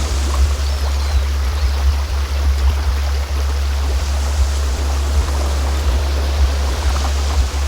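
A steady, loud low hum tone, a sound-therapy frequency, played over a continuous sound of running stream water.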